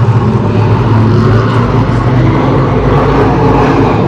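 Race car engines running on the track, a loud steady drone.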